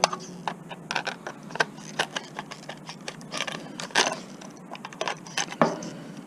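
Hand tools and small metal and plastic parts clicking and clattering in quick, irregular knocks as an electronic unit is pulled apart for scrap.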